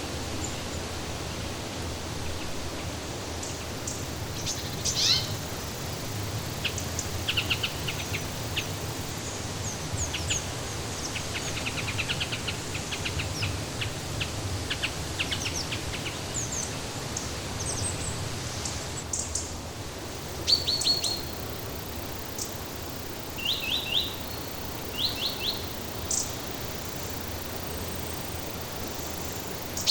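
Several birds chirping and calling in short, quick series over a steady background hiss.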